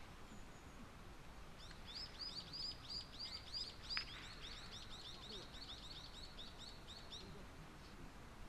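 A bird calling in a fast run of high, repeated chirps, about five or six a second, lasting around five seconds. A single sharp click sounds midway through.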